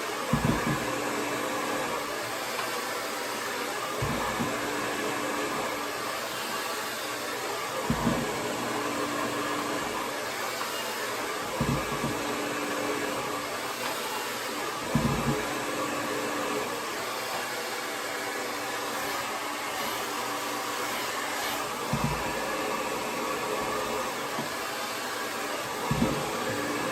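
Conair Testarossa 1875-watt AC-motor hair dryer running steadily, a constant rush of air with a faint hum. A short low thud comes every three to four seconds, about seven in all.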